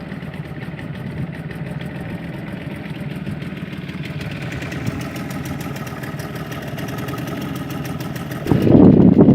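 Hangkai 6 outboard motor running steadily, pushing the boat along while it is being run in. Near the end a much louder, rough rush of noise comes in over it.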